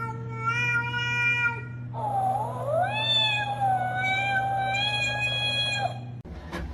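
A cat giving two long, drawn-out meows. The second is higher and longer: it rises, then holds steady for several seconds. A few sharp clicks come near the end.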